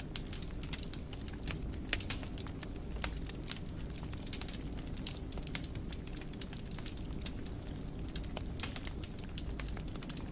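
Wood fire in a fireplace crackling and popping: many small irregular sharp snaps over a steady low rumble of burning.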